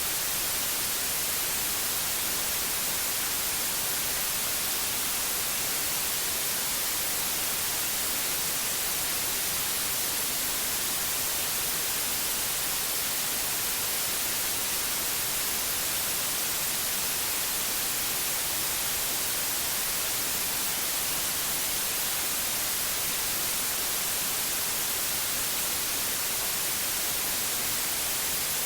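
Pure white noise: a steady, even hiss, brightest in the treble, with no change or interruption.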